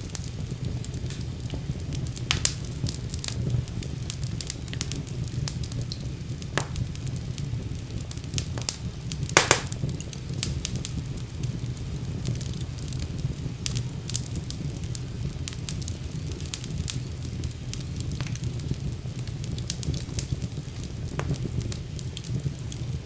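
Wood fire burning in a fireplace: a steady low rush of flames with frequent sharp crackles and pops, the loudest pop about nine and a half seconds in.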